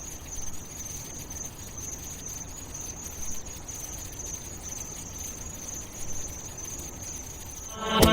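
A steady high-pitched trill, like insects, over low rumbling noise; music with a beat begins near the end.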